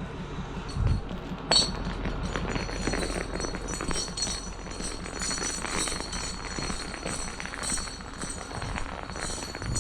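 Footsteps crunching through snow as someone struggles up a snowy slope, with a thump about a second in and a sharp knock just after.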